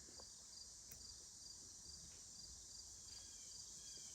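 Faint crickets chirping in an even pulse about three times a second, over a steady high insect hiss.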